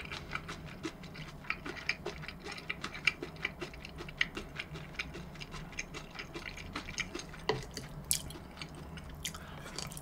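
Close-miked eating sounds: chewing with wet mouth clicks and smacks, an irregular run of small sharp clicks several a second.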